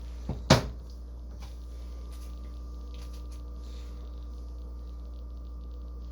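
A sharp knock of a hard object about half a second in, just after a lighter tap, over a steady low hum.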